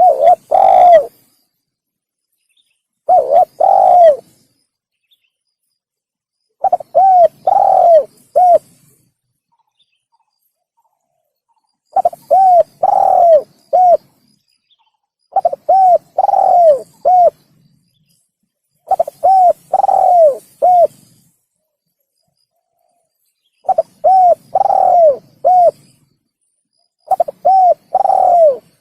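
Spotted dove (tekukur) cooing, a lure call: short phrases of two to four arched coos, repeated eight times with pauses of a few seconds between them.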